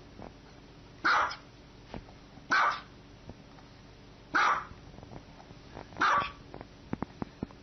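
A small dog barking: four single short barks, one every one and a half to two seconds.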